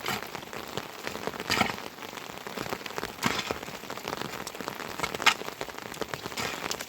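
Heavy rain falling steadily, a dense patter of drops, with louder single drops or drips striking every second or two.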